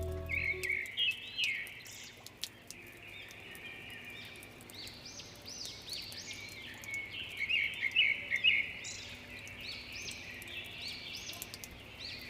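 Several birds chirping with short, repeated calls that overlap, busiest about eight seconds in. A low musical note fades out in the first second.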